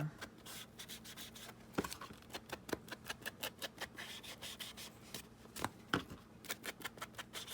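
Foam dauber sponge dabbing and rubbing ink onto the edges of a paper tag: a quiet, irregular string of soft taps and scratchy brushing.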